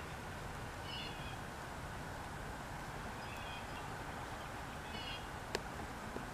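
A bird chirping briefly three times over a steady outdoor background hiss, with one sharp click about five and a half seconds in.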